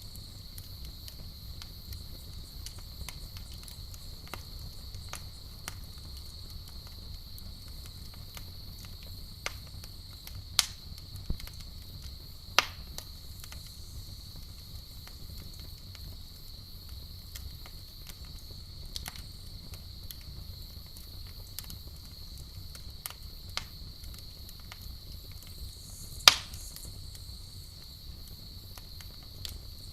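Campfire crackling: scattered small snaps and a few sharp, louder pops, about three standing out, over a steady high-pitched drone and a low rumble.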